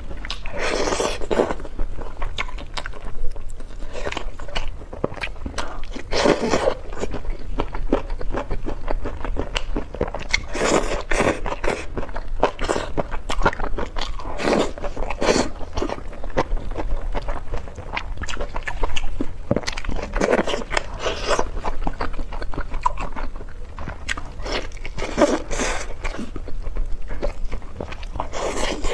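Close-miked eating sounds: wet chewing, biting and mouth noises as braised meat is torn off the bone and eaten. Louder bursts of biting and chewing come about every four to five seconds.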